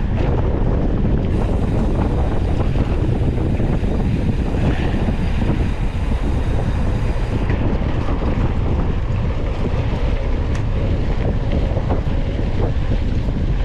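Steady wind buffeting the microphone of a camera riding on a moving mountain bike, with a low rumble and a few faint clicks and rattles.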